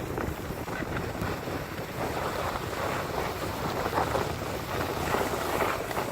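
Skis sliding and scraping over packed snow in a steady downhill run, with irregular swishes, under wind rushing on the phone's microphone.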